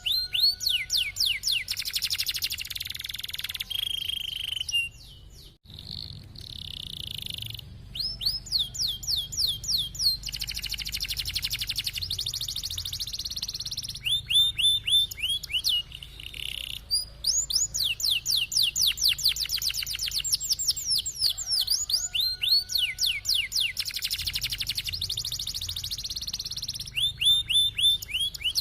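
Domestic canary singing a long, varied song: fast rolling trills of rapid repeated downward-sweeping notes alternating with buzzier held phrases, with a brief pause about five seconds in.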